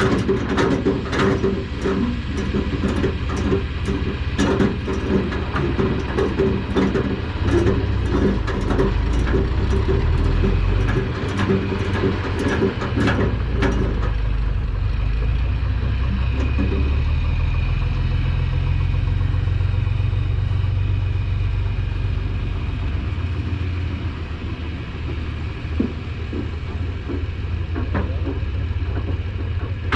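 Heavy vehicle engine running with a steady low rumble. Rapid, irregular clicking and rattling goes on over it through the first half and stops about halfway through.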